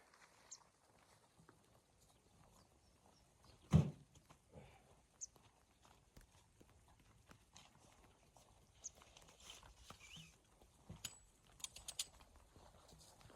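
Faint, irregular crunches and small knocks, with one louder thump about four seconds in and a quick run of clicks near the end.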